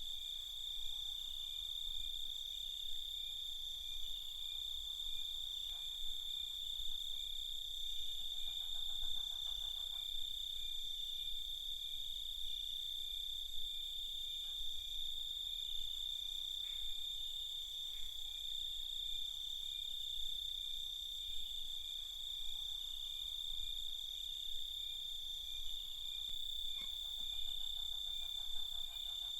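Night chorus of crickets: a continuous, steady high-pitched trill with a second, pulsing chirp just beneath it. A lower, rapidly pulsing call joins briefly twice, about a third of the way in and near the end.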